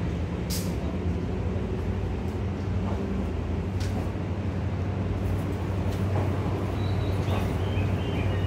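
E235-1000 series electric train rolling slowly into a station platform, a steady low rumble of wheels and running gear. Two sharp clicks, about half a second and about four seconds in, and a faint high whine joins near the end.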